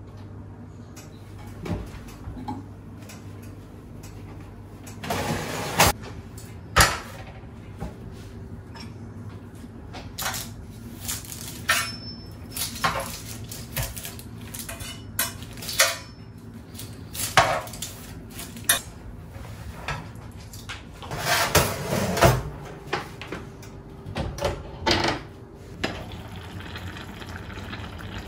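Kitchen dishes and utensils clinking and knocking at irregular intervals, over a faint steady hum.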